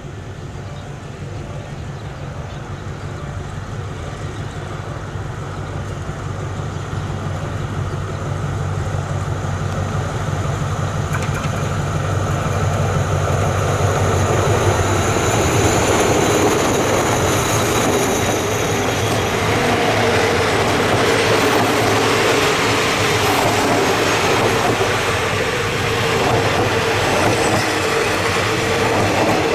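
Passenger train on the rails growing steadily louder over about fifteen seconds, then running on at a steady level with wheel-on-rail rumble and some thin wheel squeal.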